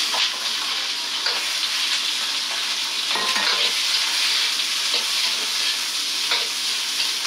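Raw bullfrog pieces stir-frying in hot oil in a wok: a steady sizzle, with a steel ladle scraping and knocking against the wok now and then.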